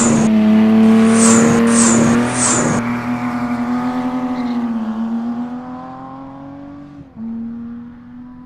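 A car engine held at high, steady revs, with short sharp hissy bursts over the first three seconds. It grows fainter, and the note breaks off briefly and picks up again about seven seconds in.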